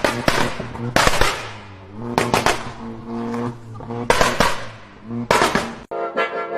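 Car exhaust popping and crackling in quick clusters about once a second, with a steady pitched drone between the clusters. Near the end it cuts off abruptly into music with brass.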